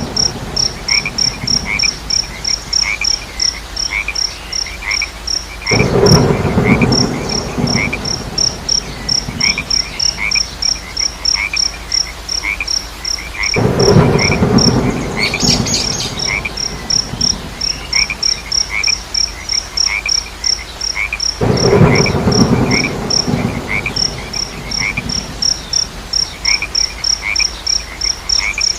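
Crickets chirping in a fast, steady rhythm, about four high chirps a second, with a second, lower chirp woven in, over a steady hiss of rain. Three times, about eight seconds apart, a loud low rough calling rises for about two seconds and falls away.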